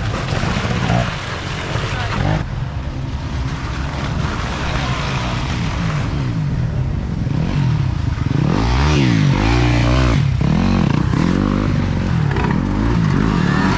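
Dirt bike engines revving on a cross-country race course, the pitch rising and falling with throttle and gear changes, loudest about nine seconds in as a bike passes close.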